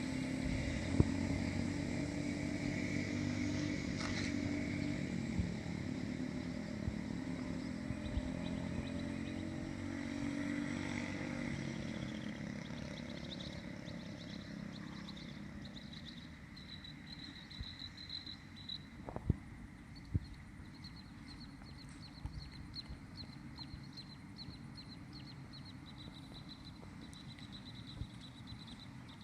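Small single-cylinder engine of a vintage go-kart or minibike running, fading away over the first half until it can hardly be heard. After that, only a faint, broken high chirping and a few light clicks remain.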